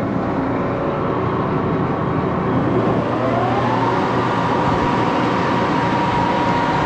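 Axelson engine lathe running at speed, a steady mechanical din. A whine rises in pitch about three seconds in and then holds steady.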